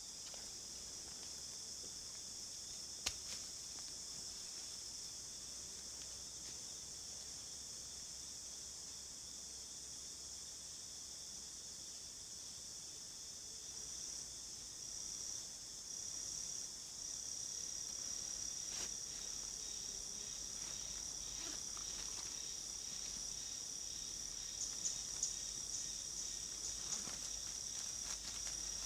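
Continuous high-pitched drone of insects such as crickets or cicadas. A steady high whine joins in about halfway through, with a sharp click early on and a short run of high chirps near the end.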